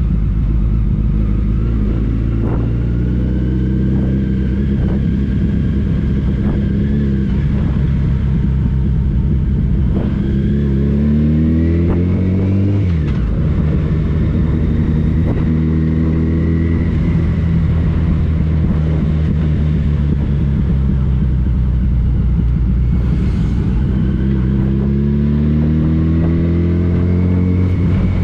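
Motorcycle engine running under way with road and wind rumble. The engine note climbs slowly as it accelerates several times and drops sharply about 13 seconds in.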